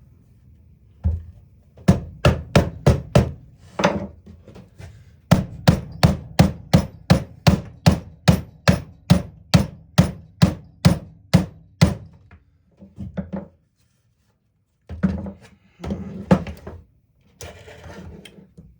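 Hammer blows on a reciprocating saw (Sawzall): a quick burst of about five strikes, then a long, even run of about eighteen at roughly two and a half a second, then a few scattered knocks.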